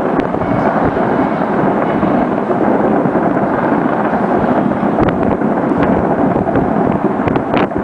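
Massed fireworks and firecrackers going off together in a dense, continuous rumbling din, with a few sharper bangs standing out about five seconds in and near the end.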